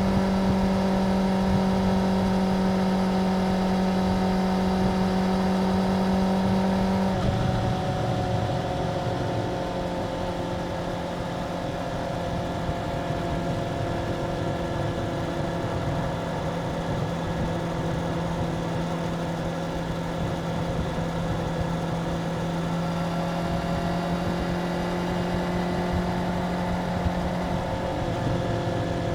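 Suzuki GSX-R750's inline-four engine running at steady revs. Its pitch and loudness drop slightly about seven seconds in, then hold steady again with a slight rise near the end.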